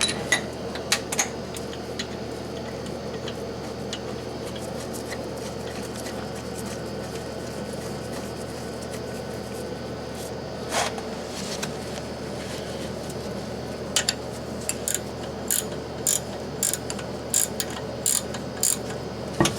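Hand tools working on an oil burner's filter housing: a single sharp metal click about eleven seconds in, then a run of quick clicks, about two a second, near the end, over a steady low hum.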